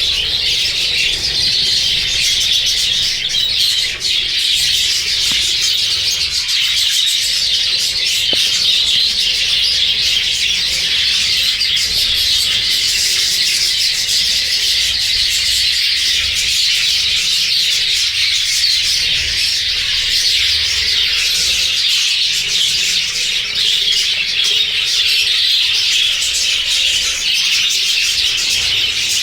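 A flock of budgerigars chattering and chirping without a break, many high calls overlapping.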